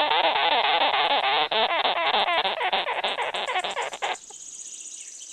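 Sugar glider calling with a dense run of rapid, wavering squeaky chatter that stops abruptly about four seconds in.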